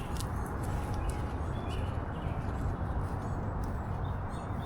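Outdoor park ambience: a steady low rumble with a few short, high bird chirps over it.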